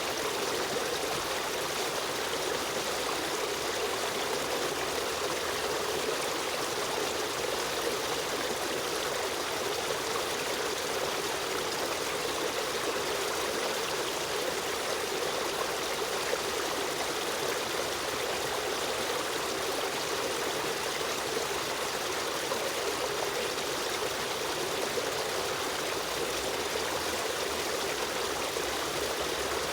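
River stream running steadily: a continuous, even rush of flowing water with a trickling texture.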